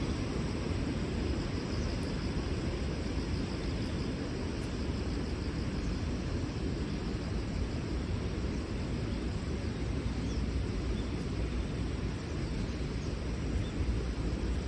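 Steady outdoor ambience: an even low rumble with a lighter hiss over it, unchanging throughout.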